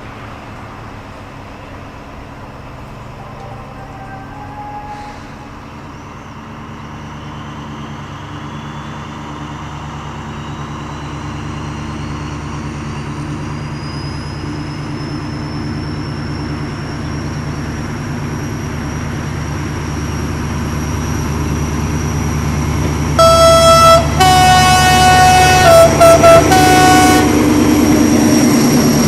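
SNCF BB 67300/67400-class diesel locomotive running and growing steadily louder as it approaches, with a rising whine over the engine. About 23 seconds in, it sounds its two-tone horn: four short alternating low and high notes over about four seconds.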